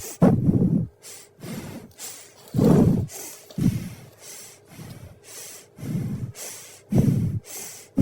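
A dog snorting and sniffing in about a dozen short, irregular bursts while nosing out a hidden treat egg.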